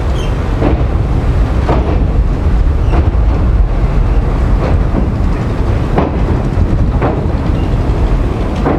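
Passenger train rolling slowly across a steel railway bridge: a steady low rumble with the wheels knocking over rail joints about once a second.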